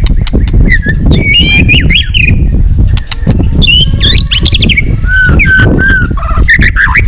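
White-rumped shama singing a run of varied, sliding whistled phrases. Underneath is a loud low rumble with many sharp clicks.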